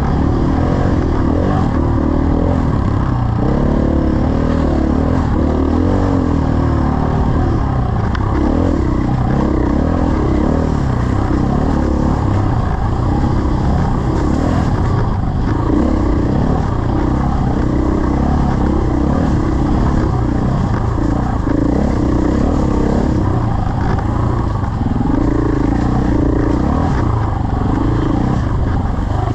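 Dirt bike engine running while riding, its pitch rising and falling repeatedly with the throttle.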